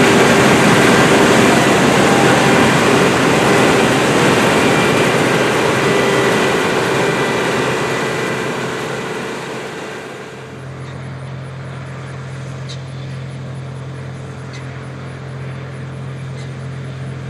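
Case IH 1660 Axial-Flow combine running while harvesting, a loud steady mix of engine and threshing noise. It fades away from about eight seconds in. A quieter steady low hum is left after about ten seconds.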